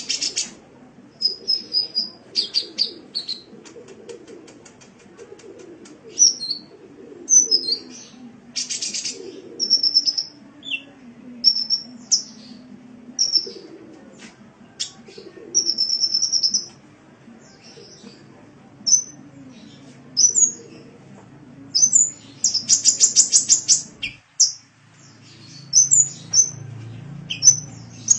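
Sunbird song: a series of short, high-pitched chirps and whistles with pauses between them, broken by a fast rattling trill about a third of the way in and a longer one near the end.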